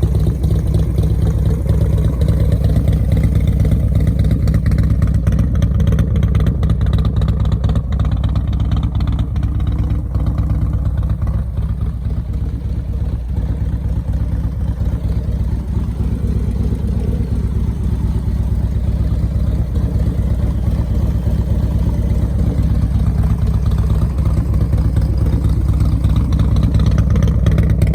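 Harley-Davidson Road Glide's stage 4 V-twin running steadily at idle through a D&D exhaust, with a deep, even exhaust note.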